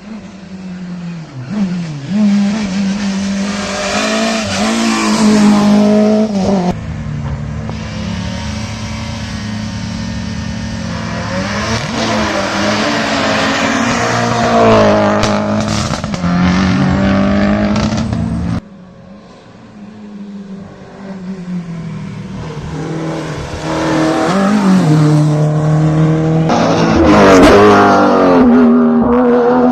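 Hillclimb race cars accelerating hard past the microphone, their engines revving up and dropping through gear changes. The sound switches abruptly twice, about seven and nineteen seconds in, as one car gives way to the next.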